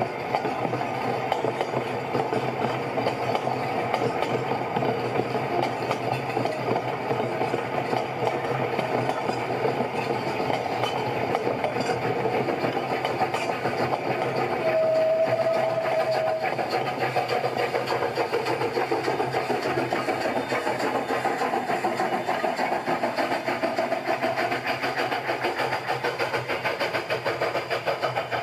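An engine running steadily, with a fast, even pulsing clatter. A short steady tone sounds about halfway through.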